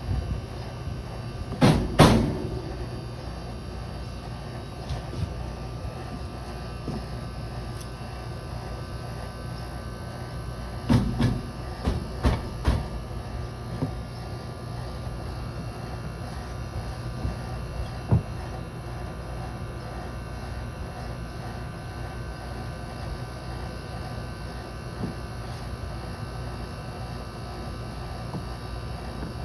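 Room air conditioner running with a steady low hum, with a few knocks and clatters about two seconds in and again around eleven to thirteen seconds.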